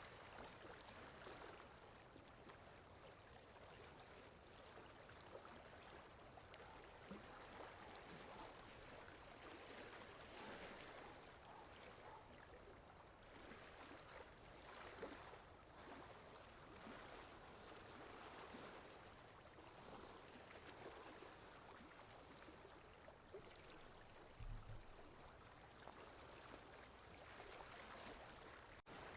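Faint steady rain falling, an even patter of drops. A brief low thump comes about three-quarters of the way through.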